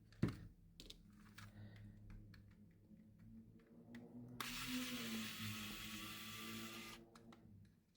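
Small scattered clicks of a screwdriver working the back-shell screws of a PS5 SCUF Reflex controller, then a steady whir lasting about two and a half seconds.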